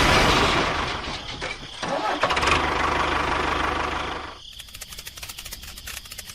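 An engine running with a steady low hum, cutting off abruptly about four seconds in, leaving quieter rapid ticking.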